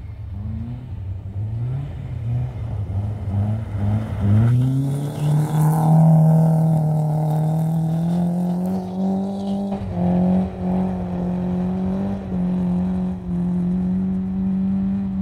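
Car engine revving hard as the car slides sideways on snow. The revs climb in a series of short pulls over the first four seconds, then stay high and nearly steady, dipping briefly a few times in the second half. A hiss runs over the engine for several seconds from about four and a half seconds in.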